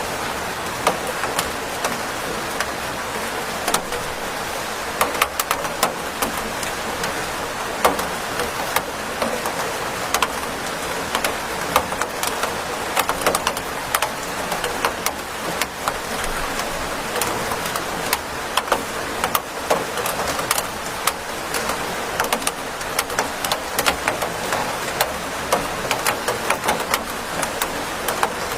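Steady rain, an even hiss, with many close drops landing as irregular sharp ticks on a hard surface.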